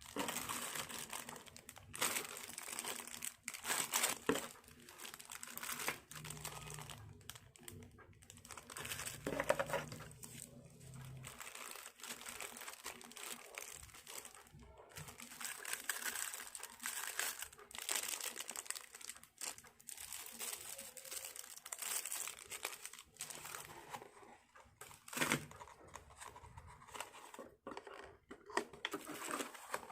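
Parcel packaging being unwrapped by hand: irregular crinkling and rustling with some tearing, stopping and starting throughout.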